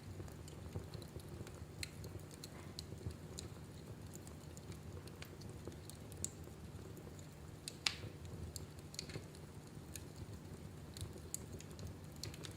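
Wood fire in a fireplace crackling: irregular sharp pops and snaps over a steady low rumble, with one louder snap about eight seconds in.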